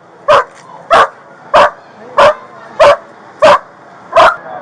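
Dog barking loudly and steadily, seven barks at an even pace of about one every two-thirds of a second.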